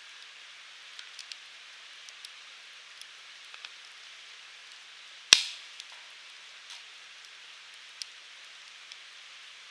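Wood fire burning in a Uniflame Fire Grill fire pit: a steady hiss with scattered light crackles, and one loud sharp pop about halfway through.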